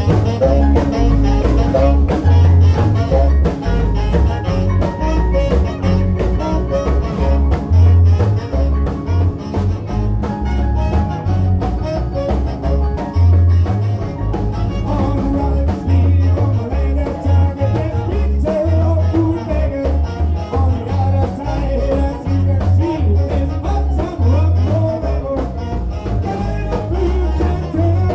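A live band plays an upbeat rock and roll song with drums, bass and singing, recorded through a phone's microphone with a heavy bass.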